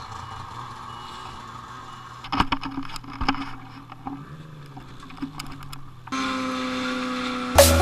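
Snowmobile engine running steadily, with a few sharp knocks about two and three seconds in. About six seconds in, a steady pitched hum starts abruptly and grows louder near the end.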